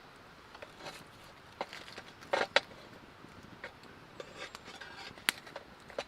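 Scattered light knocks, clicks and scrapes of things being handled, wood and metal by the sound of it. There is a louder cluster of knocks about halfway through and a single sharp click near the end.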